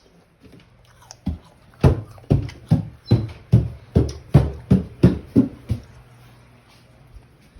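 An apple being chewed close to the microphone: about a dozen crunchy chews, roughly two a second, that stop about two seconds before the end.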